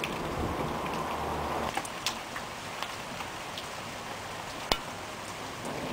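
Steady rain hissing, with scattered sharp drip taps; the loudest tap comes near the end. A low rumble under the rain stops about a second and a half in.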